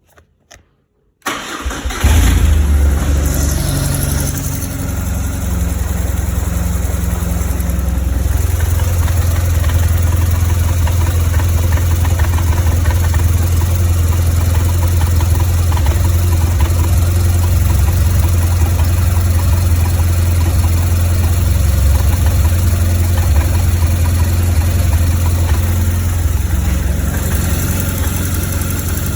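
2004 BMW R1200GS boxer-twin engine started about a second in, then idling steadily with a rough idle that the owner traces to the right cylinder head.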